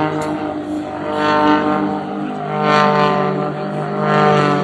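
Propeller aircraft engine droning with a steady pitch, swelling and fading in loudness about every second and a half.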